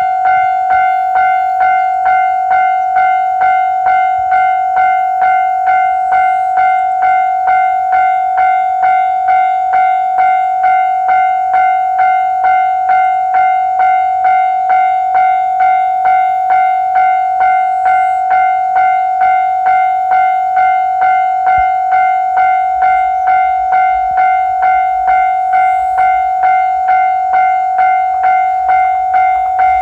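Railway level-crossing warning bell ringing steadily, about two strikes a second. A low rumble of an approaching train builds in the last several seconds.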